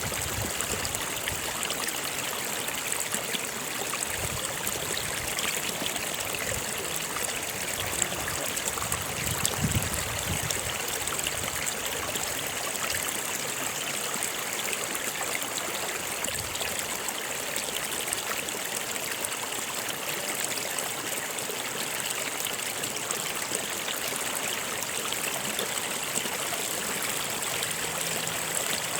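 Stream water flowing and splashing steadily over rocks, a continuous rushing with a steady high hiss on top. It swells a little about ten seconds in.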